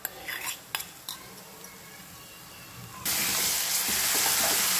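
A few light clinks of a spoon on a steel bowl. About three seconds in, a loud, steady sizzle starts as ginger-garlic paste is stirred into hot oil with browned onions in a stainless steel kadhai.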